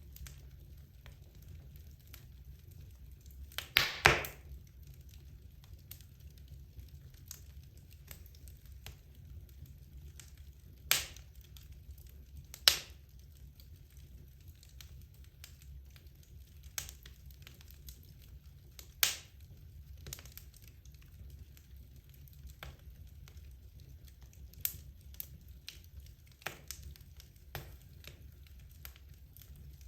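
Wood logs burning in a fireplace, crackling with sharp pops over a steady low rumble. A loud cluster of cracks comes about four seconds in, then single pops every few seconds, with smaller ticks near the end.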